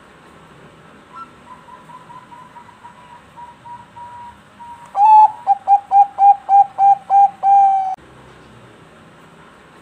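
Zebra dove (Bangkok perkutut) singing. A faint run of quick soft notes leads into a loud series of about ten short cooing notes, the last one drawn out longer.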